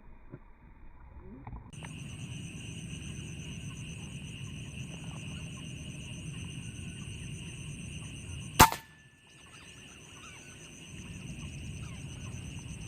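A single sharp shot from an Air Arms PCP air rifle about two-thirds of the way through, cutting across a steady high-pitched background drone that drops out for about a second after the shot.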